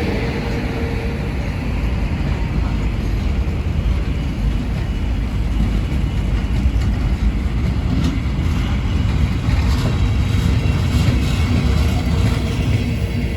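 A train running through the station: a steady, loud low rumble, with faint clicks of the wheels over the rail joints in the second half.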